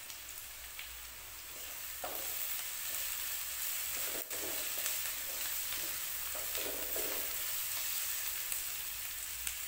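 Chopped onion, ginger and green chilies sizzling in hot ghee in a kadhai, stirred with a wooden spatula that scrapes the pan now and then. The sizzle grows a little louder about two seconds in, and there is one sharp click a little after four seconds.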